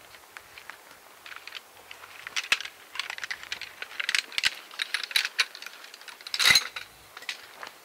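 Light clicks and rattles of a folding camp chair being put together, its frame parts knocking and snapping into place; the clicking gets busier after a couple of seconds, with a single loudest clatter about six and a half seconds in.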